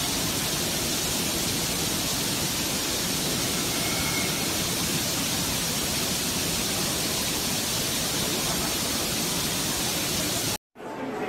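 Steady, loud rushing noise of water, as from floodwater or a downpour. It cuts off abruptly near the end into a quieter, different background.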